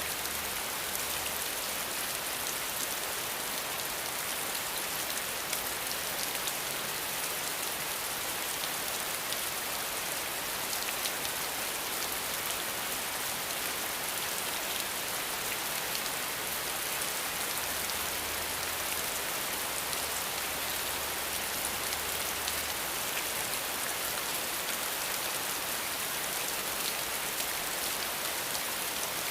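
Steady rain falling: an even hiss with a dense patter of fine drops.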